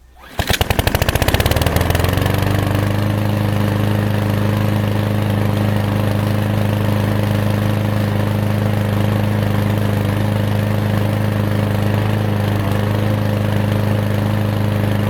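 Lawn mower engine catching about half a second in, its pitch climbing for a second or so as it picks up speed, then running steadily.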